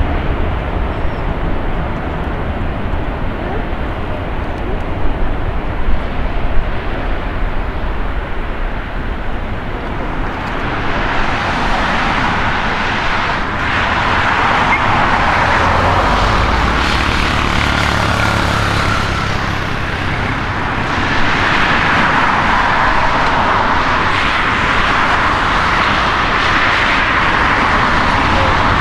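Four CFM56 jet engines of an Airbus A340-300 running up to takeoff power. After a steady low rumble, the engine noise grows much louder about ten seconds in and stays loud as the jet begins its takeoff.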